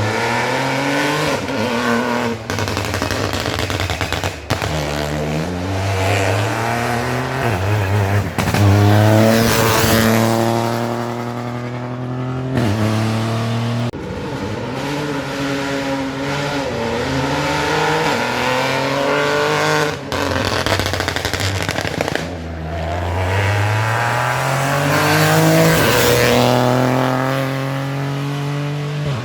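Rally cars at full throttle on a special stage, engines revving up through the gears with quick drops in pitch at each shift, and two loud close passes, one about ten seconds in and one near the end.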